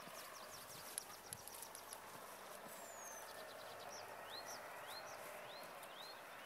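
Wild birds singing: many quick, high chirps, then a short rising call repeated about every half second near the end, over faint outdoor background noise.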